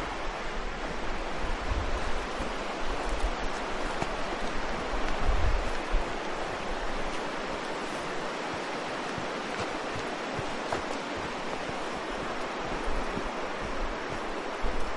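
Waterfall rushing steadily, a dense even noise of falling water. Wind buffets the microphone with low bumps during the first several seconds.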